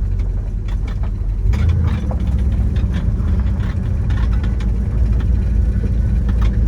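The 350 small-block V8 of a 1971 Chevrolet El Camino Super Sport runs steadily under way, a low even engine and road drone. A few light clicks sound over it.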